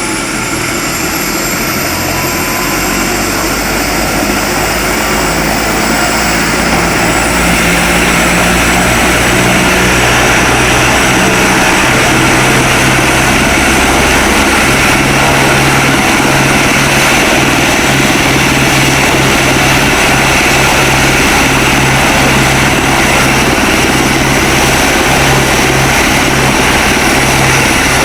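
Police helicopter's turbine engine and rotor running up: a high whine rises in pitch over the first several seconds as the sound grows louder, then settles into a steady loud turbine roar with the beat of the rotor blades.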